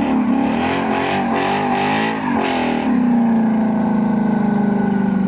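A car engine revving hard, blipped up and down in quick pulses for about three seconds, then held at a steady high rev.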